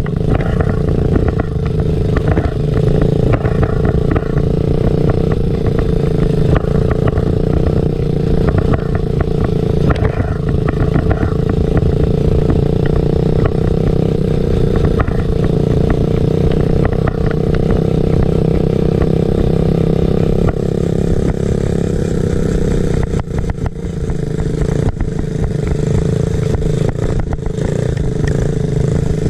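Small off-road motorcycle engine running steadily under way, with frequent knocks and rattles over it, and a brief easing of the engine about three quarters of the way through.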